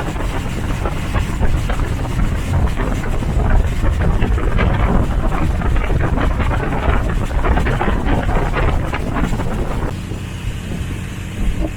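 Wind buffeting the microphone over the low rumble of a moving vehicle, easing slightly near the end.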